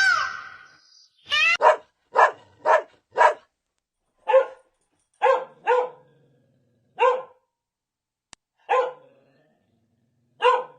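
A dog barking: about a dozen short single barks with irregular pauses between them.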